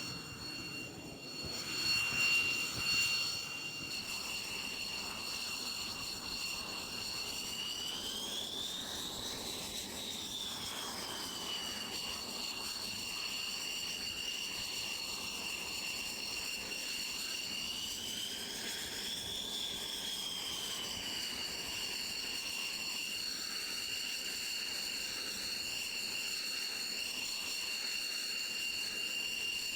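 Jet engine running with a steady high-pitched turbine whine; its pitch rises and settles back twice, about a third and two-thirds of the way through.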